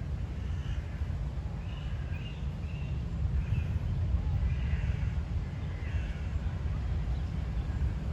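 Wind buffeting the microphone with a constant low rumble, the loudest sound, and faint short bird calls repeating every second or so over it.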